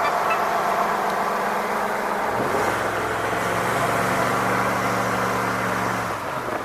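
Road vehicle on the move: a steady rush of tyre and wind noise with a low engine hum. About two and a half seconds in, the engine note rises and holds, then it drops away shortly before the end.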